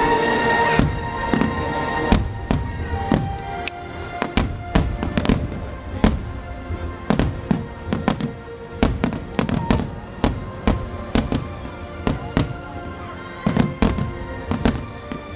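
Fireworks going off in a rapid, irregular string of sharp bangs, several a second, with music playing underneath.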